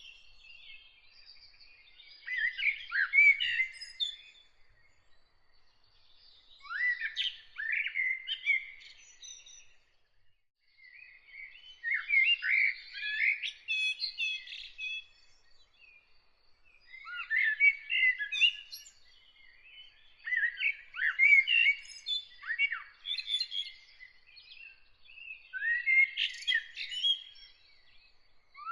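A songbird singing a run of short, chirpy phrases, each a couple of seconds long, with brief pauses between them.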